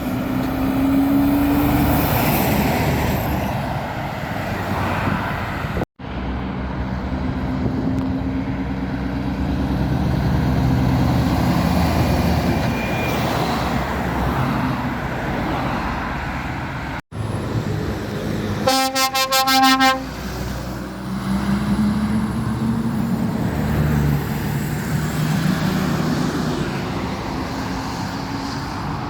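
Lorries passing on a busy road, their engines and tyres rising and falling as each one goes by, with the sound cutting off abruptly twice. About two-thirds of the way in, a truck horn sounds loudly for about a second and a half.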